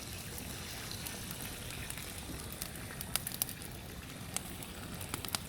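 Wood campfire crackling, with scattered sharp pops at irregular intervals over a steady hiss.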